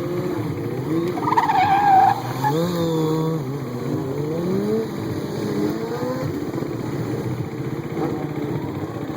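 Stunt motorcycle engine revving, its pitch rising and falling again and again, with a brief high squeal about a second in.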